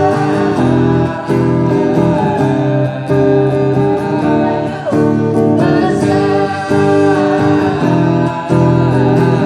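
A worship song sung with acoustic guitar accompaniment.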